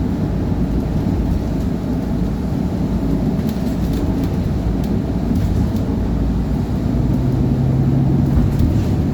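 City transit bus running close by: a loud, steady low rumble, with a steady low hum joining in for about two seconds near the end.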